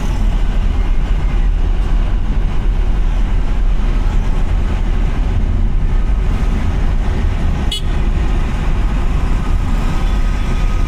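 Car driving on a wet road in traffic: a steady low rumble of engine and tyres, with one sharp click about three-quarters of the way through.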